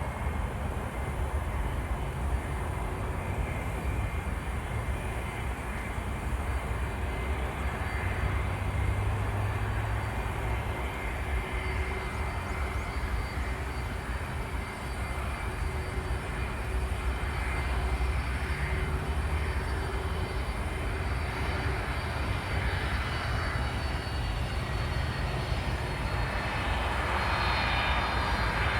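Jet airliner engines running, a steady rumble with a high whine that slides down in pitch near the end as the plane passes.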